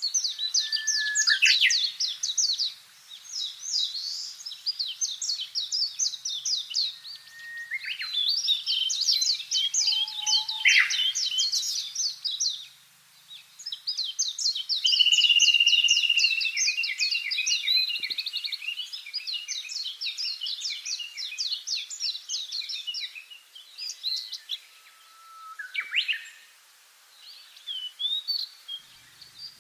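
Songbirds singing: rapid trilled phrases and chirps that overlap almost without a break, with a few quick swooping whistles.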